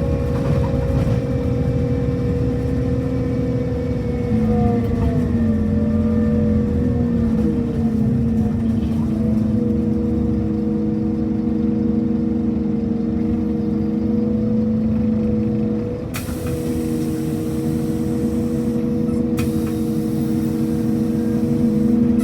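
Scania Lahti Scala K230 UB bus engine running with a loud, steady high whine, the 'screaming' of its engine. Its pitch shifts slightly a few seconds in. About sixteen seconds in, a sharp hiss of air starts, breaks off briefly and comes back.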